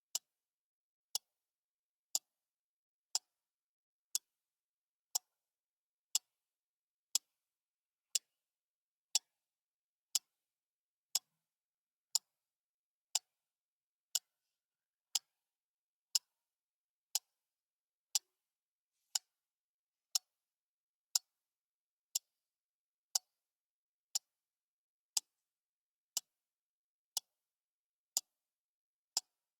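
Clock ticking steadily, one short, sharp tick a second, with silence between the ticks.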